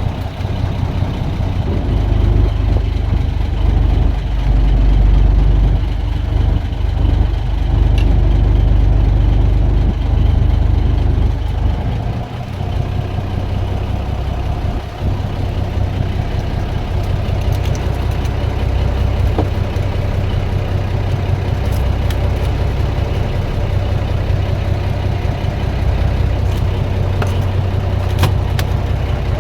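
Fishing boat's engine running steadily at low revs, a deep even hum, heavier for the first dozen seconds or so and then a little lighter.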